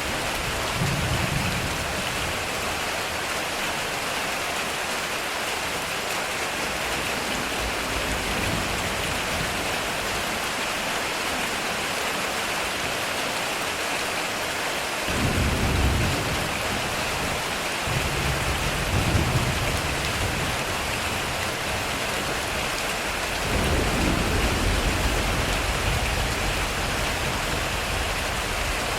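Heavy rain falling steadily on a metal roof, with low rumbles of thunder: a short one about a second in, a stronger one about halfway, another a few seconds later, and a longer rumble past three-quarters of the way.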